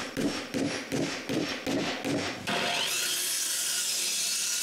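Hand saw cutting through a wooden board in even back-and-forth strokes, about three a second; about halfway through it gives way to the steady whir of a power tool, its pitch climbing as it starts.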